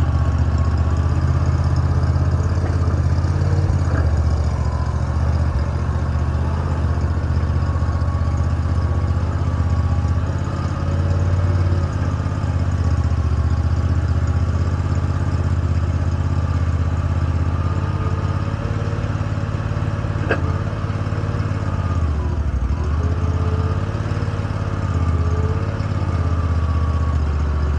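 An engine idling steadily with a deep hum, broken by two sharp clicks, one a few seconds in and one about twenty seconds in.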